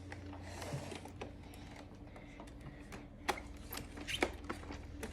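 Soft handling rustle, then a few separate light plastic clicks in the second half as parts of an iRobot Roomba 690 robot vacuum are handled, over a low steady hum.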